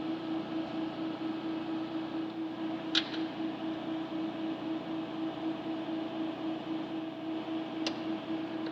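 A steady machine hum with an evenly pulsing tone over a hiss, broken by two sharp clicks about three and eight seconds in.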